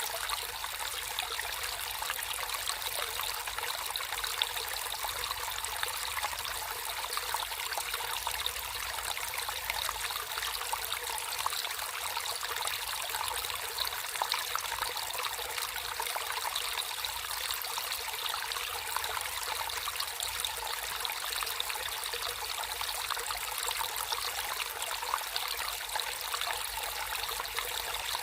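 Natural stream water flowing and trickling in a steady, even rush with fine splashy detail.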